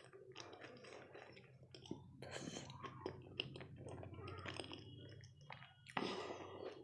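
Close-miked chewing of dahi golgappe, puffed puri shells filled with yogurt, with many small crackles and clicks.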